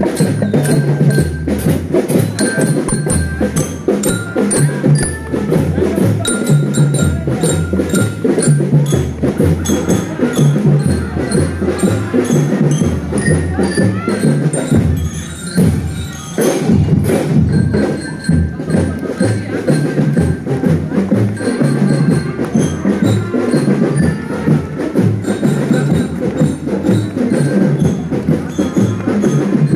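A school marching drum band playing: drums beating a steady rhythm under a melody of bright, held bell-like notes from a bell lyra (marching glockenspiel). The playing thins briefly about halfway through, then carries on.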